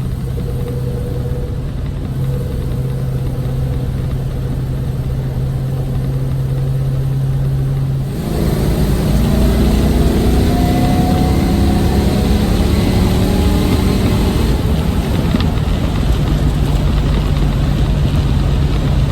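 Plymouth Road Runner's 383 Magnum V8 running at a steady cruise, then about eight seconds in getting louder as it accelerates, its pitch climbing for several seconds before it settles back to a steady drone.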